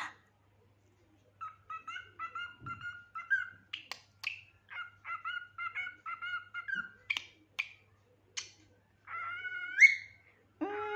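Cockatiel chattering in quick runs of short chirps, with a few sharp clicks among them and a longer call that rises in pitch near the end.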